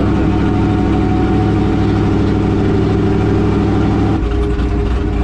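A vehicle engine idling steadily. About four seconds in, the sound changes to a deeper, rougher rumble.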